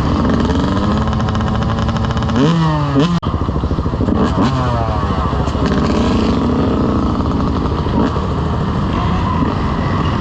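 Dirt bike engine running under way and revving: the pitch climbs about two and a half seconds in, cuts out sharply for an instant near three seconds, then climbs again a second later.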